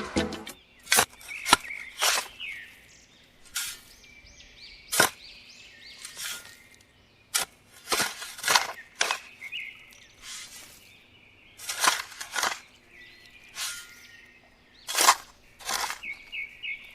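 Irregular sharp clicks and taps, roughly one a second, with faint high chirps between them.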